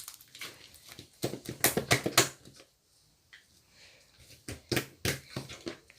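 Slime being squeezed and pressed by hand, giving quick crackling clicks and pops in two bursts, one about a second in and another near the end.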